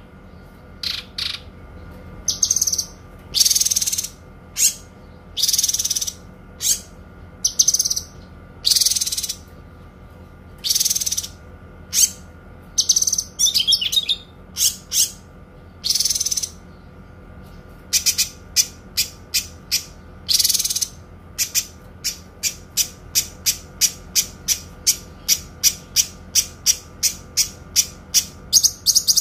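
Kinoi bird singing clear, high-pitched notes: spaced-out longer phrases at first, then from a little past the middle a long fast run of short repeated chirps that speeds up toward the end.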